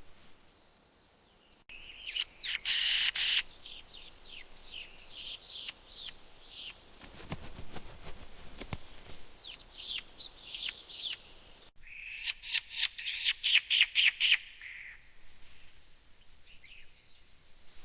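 Wild birds calling in rapid runs of chirps and trills, many notes sliding downward. The sound cuts off abruptly twice, about two seconds in and about twelve seconds in, as one recording gives way to another.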